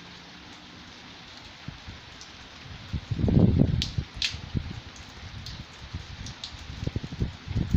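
Steady rain hiss with a few sharp drip ticks. A loud burst of low rumbling comes about three seconds in, and irregular low thumps follow near the end.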